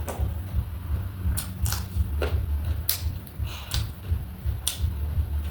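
Close-miked chewing and crunching of food, with about eight sharp crunches spread unevenly over a steady low rumble.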